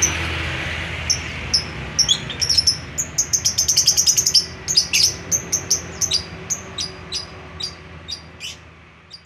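Lovebirds chirping: short, shrill, high-pitched chirps that come in a quick dense run about three to four seconds in, then thin out into scattered chirps that fade toward the end.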